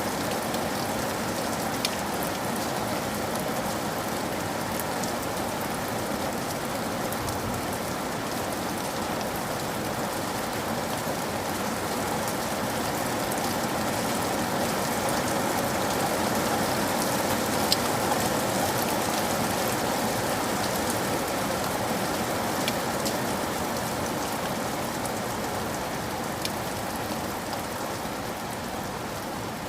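Steady rain falling on a surface, an even patter with a few sharper drop ticks.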